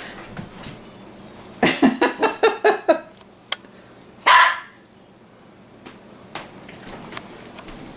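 A dog barking: a quick run of about six barks around two seconds in, then a single loud bark a couple of seconds later.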